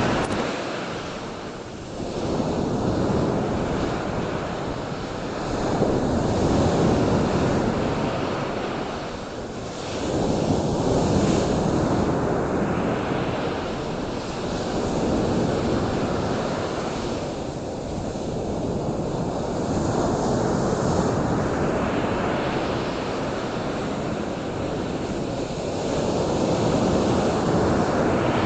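Surf: a steady rushing noise that swells and fades every few seconds, like waves washing in.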